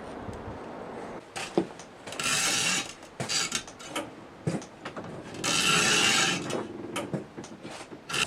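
Adhesive tape being pulled off the roll twice in long rasping strips, while the snapped clutch cable is taped up, with small clicks and knocks of handling in between.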